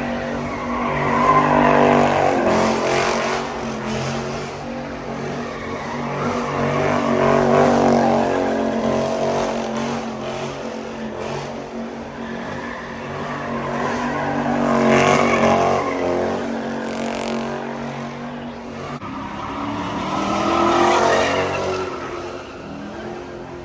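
Car engine revving hard in repeated surges, rising and falling about every six seconds, with tire squeal, under a steady low hum.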